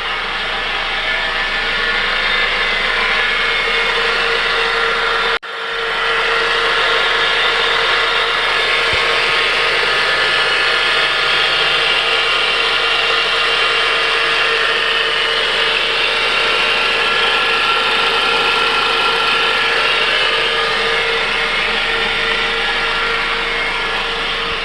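2005 Mitsubishi Outlander's 2.4 L four-cylinder engine running with a steady whine that cuts out briefly about five seconds in. The whine persists after an alternator replacement, and the owner suspects a pulley on the accessory belt.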